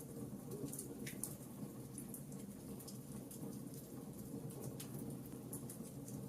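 Fireplace crackling: small irregular pops and snaps scattered over a steady low rumble.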